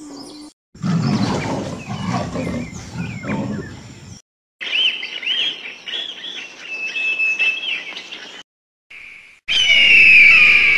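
A string of separate animal calls: first a low, rough call, then repeated high chirps, then a loud, shrill whistling cry that falls in pitch near the end.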